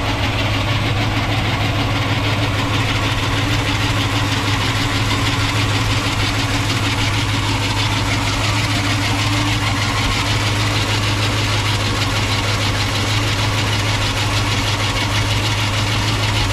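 A 1968 Ford Mustang's 302 V8 idling steadily, with a noise from the alternator pulley. The pulley is wobbling and needs to be replaced.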